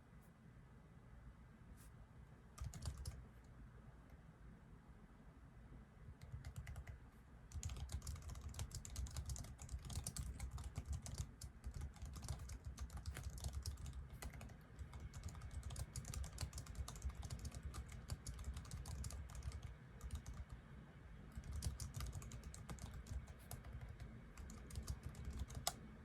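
Typing on a computer keyboard: a few scattered keystrokes at first, then fast continuous typing from about seven seconds in, with a brief pause a little before the end.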